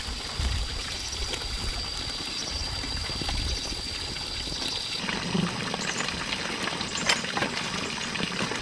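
Water running or trickling, an even rushing hiss with uneven low rumbling. A thin steady high tone runs through it and stops about five seconds in, and a few sharp clicks follow.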